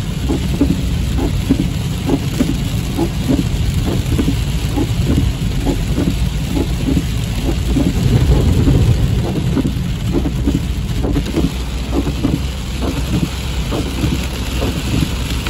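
Heavy rain drumming on a car's roof and windshield, heard from inside the closed cabin as many irregular taps over a steady low rumble from the moving car, which swells about eight seconds in.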